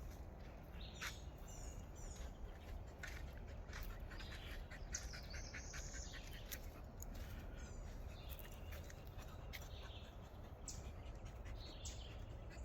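Wild birds chirping and calling in short, scattered notes over a steady low rumble, with occasional sharp clicks.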